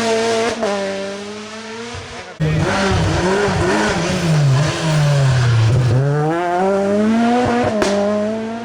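Rally cars on a special stage. One car's engine fades as it drives away, then another car comes in loud and sudden about two and a half seconds in. Its revs drop in steps as it brakes and downshifts, then climb steadily as it accelerates away.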